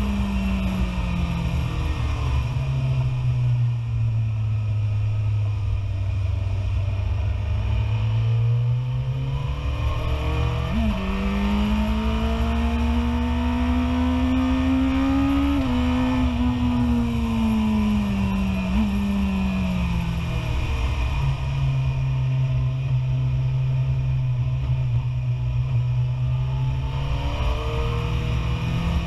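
BMW S1000RR superbike's inline-four engine, heard from a camera mounted on the bike, over a constant rush of wind. The revs fall and hold low for several seconds. They then climb for about five seconds with a few sharp blips in the note, fall away and hold again, and start rising near the end.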